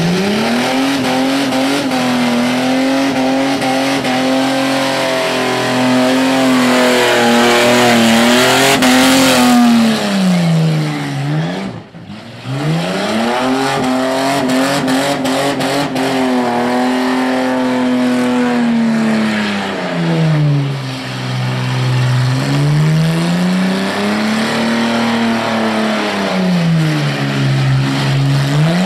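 Holden Commodore's V6 engine revved hard and held high during a burnout, its rear tyres spinning and smoking. The revs sag and climb back again several times, with a brief break about twelve seconds in.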